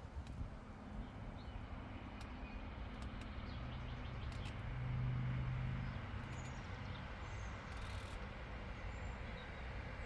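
Low engine drone of a distant vehicle that swells about halfway through and fades again, over steady open-air hiss, with a few faint bird chirps.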